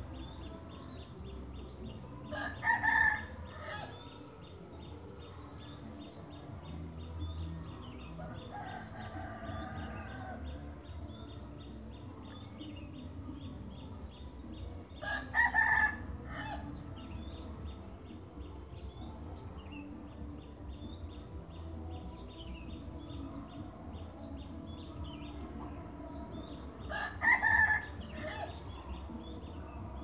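A bird calling loudly three times, about twelve seconds apart, each call lasting about a second, over a faint steady high-pitched pulsing background.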